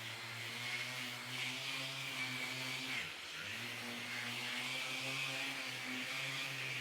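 Handheld electric power tool running steadily with a hum and a hissing whir, briefly winding down in pitch about three seconds in and then speeding back up.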